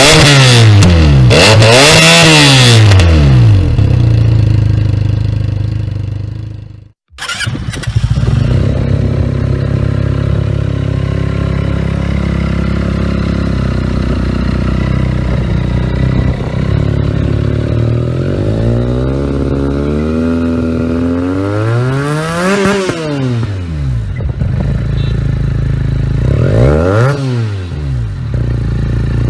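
Benelli TNT300 parallel-twin motorcycle with an aftermarket loud exhaust, blipped up and down in quick revs, then cutting out about seven seconds in. It then idles steadily and is revved several more times in the second half.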